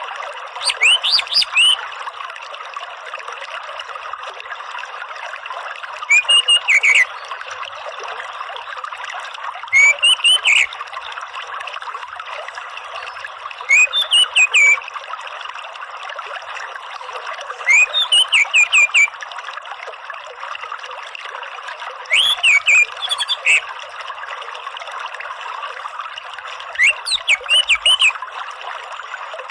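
Orange-headed thrush giving a short phrase of quick rising notes, repeated seven times about every four seconds, over steady trickling water.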